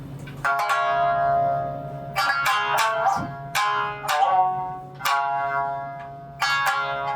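Tsugaru shamisen played live: the slow opening of a piece, with separate notes struck hard, each with a sharp percussive attack that rings out and fades before the next.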